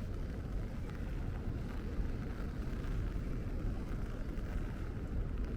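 Steady low rumble of city street ambience, mostly road traffic, with no single event standing out.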